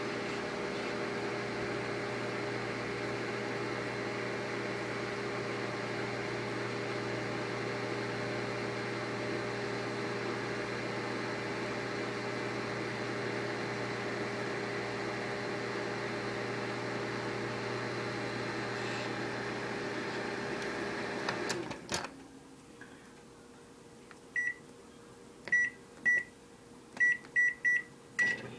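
Microwave oven running with a steady hum, which cuts off suddenly about three-quarters of the way through. Several short high beeps at uneven spacing follow, and the oven hum starts again right at the end.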